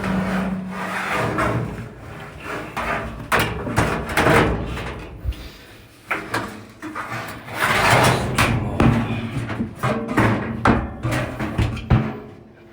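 Dryer drum being worked free and lifted out of a GE dryer cabinet: a run of irregular metal knocks and clanks with scraping between them.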